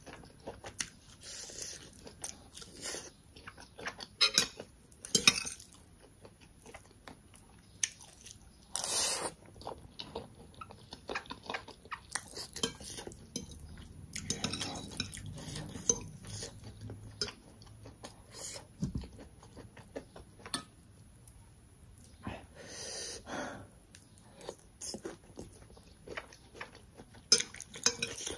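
Chewing and biting of fried pork and black bean noodles, with crunches, and a fork and spoon clinking and scraping on a plate.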